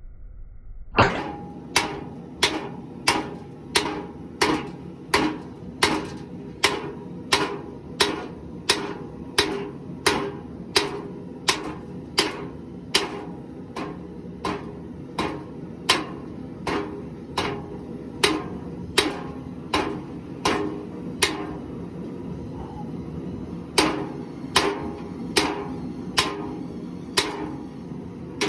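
Hand hammer forging steel for a knife blade on an anvil: a steady run of strikes about every 0.8 seconds, each with a short metallic ring. The strikes pause for about two seconds near the end, then start again.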